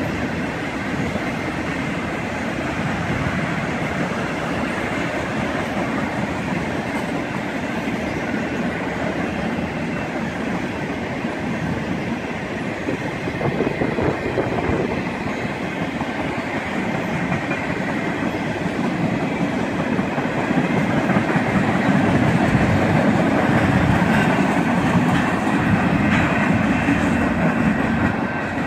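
Empty bulkhead flatcars of a BNSF track maintenance train rolling past, their steel wheels running over the rails. The steady rolling sound grows louder past the middle.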